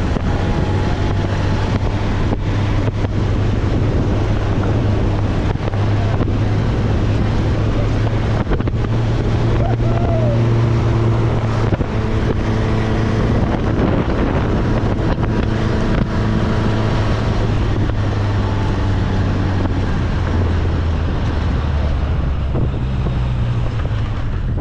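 A small open-top MG Midget sports car driving at road speed: a steady low engine drone that rises and falls slightly, with heavy wind rushing over the open cockpit and buffeting the microphone.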